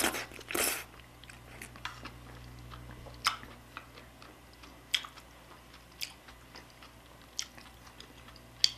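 Close-miked eating of spicy beef soup with rice: chewing with wet mouth sounds and scattered sharp clicks about once a second, after a brief louder noise near the start.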